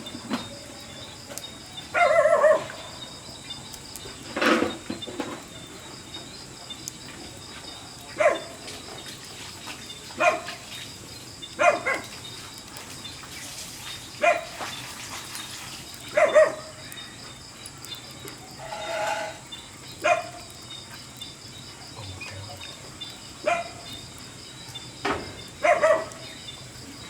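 An animal calling in short, repeated cries, about a dozen spaced roughly two seconds apart, over a steady chirring of insects.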